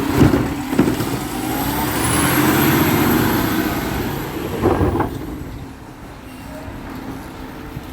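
Garbage truck engine running, with clunks near the start and about five seconds in and a thin high whine in the middle; the sound grows quieter after about five seconds.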